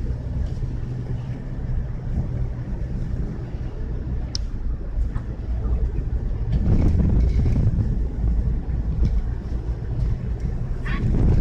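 Steady low drone of a car driving, engine and road noise together. It swells louder for a couple of seconds about six seconds in and again near the end.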